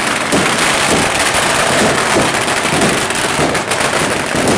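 Fireworks crackling: a dense, continuous rattle of many small rapid bangs, loud throughout and cutting off abruptly at the end.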